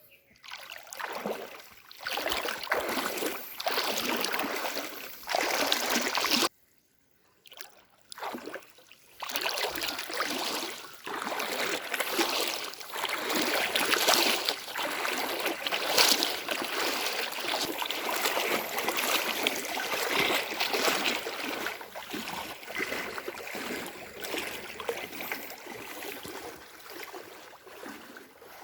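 Floodwater sloshing and splashing in an uneven, churning wash, broken by about a second of silence some six seconds in.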